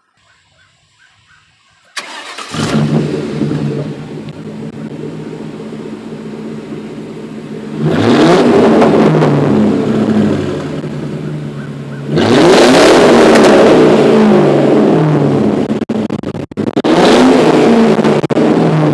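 1995 Ford Thunderbird's 4.6 V8, straight-piped with muffler and resonator deleted and an X-pipe from the cats back, starting warm about two seconds in with a flare of revs. It then idles and is revved three times, each rev held for a couple of seconds.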